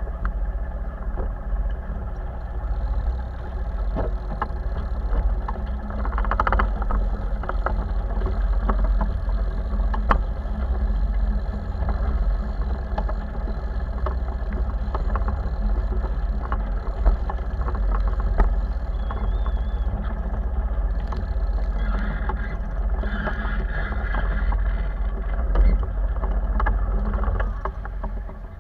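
Wind rumbling on the microphone aboard a boat under way, with small knocks scattered through it.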